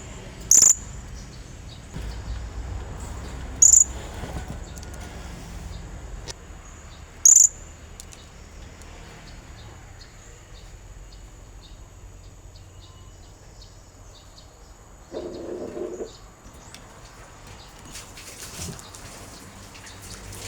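Blue-crowned hanging parrot (serindit) giving three short, shrill, high-pitched calls, about three and a half seconds apart, in the first eight seconds: the kind of call used to lure other serindits. A lower-pitched sound about a second long comes later.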